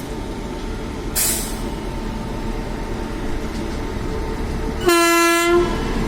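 A single short train horn blast, one steady tone under a second long, about five seconds in, over a steady low rumble of a train. A brief hiss about a second in.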